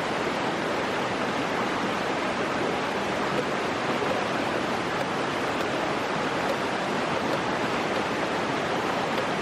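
Stream water rushing steadily over rocks, a constant, even rushing sound.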